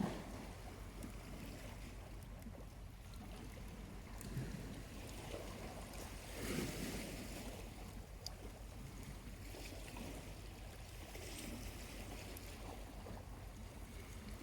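Small waves washing onto a quiet beach: a steady wash of surf that swells every few seconds, most strongly about six to seven seconds in, with a few faint sharp ticks from a charcoal campfire.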